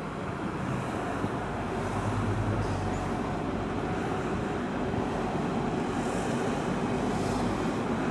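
An electric train rolling along a brick railway viaduct, a steady rumble that slowly grows louder, over a background hum of city traffic.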